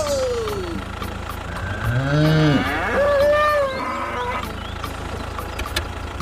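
Cow mooing: two drawn-out calls, a deep one about two seconds in and a higher one right after, over a steady low hum.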